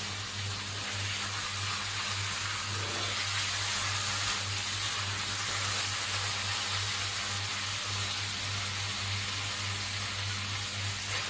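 Rice and chicken frying in a stainless steel wok, a steady sizzle while being stirred with a silicone spatula, over a steady low hum.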